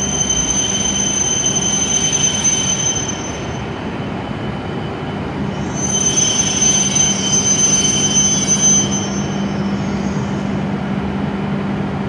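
E7-series Shinkansen train pulling into the platform and slowing to a stop, running with a steady rumble and a high steady squeal that sounds in two stretches, the second ending about nine seconds in.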